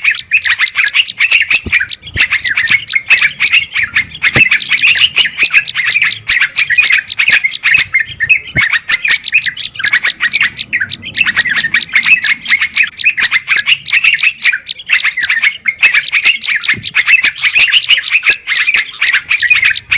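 Dense, rapid chirping of small songbirds in an agitated, noisy commotion of alarm-type calls, the kind of recording played as a lure to draw wild birds in. It eases off briefly about nine seconds in and again about fifteen seconds in.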